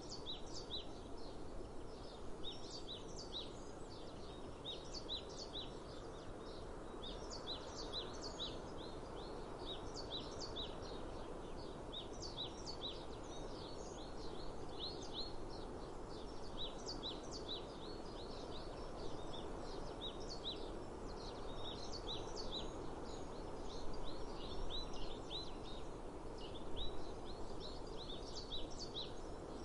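Many small birds chirping: quick, high, repeated chirps several times a second, over a steady low outdoor rush. A couple of soft knocks stand out near the end.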